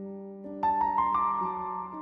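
Soft background piano music: sustained notes and chords, with new notes struck about half a second and about a second in.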